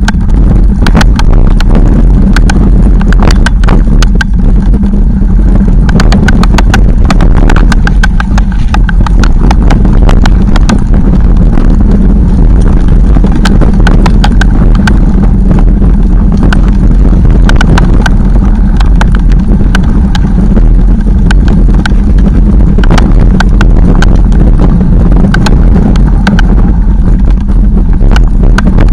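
Wind buffeting the microphone of a camera riding along on a bicycle, a heavy constant rumble, with frequent sharp rattles and knocks from the bike jolting over rough ground.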